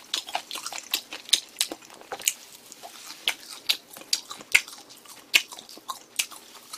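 A man chewing food close to the microphone: an irregular run of sharp mouth clicks, several a second.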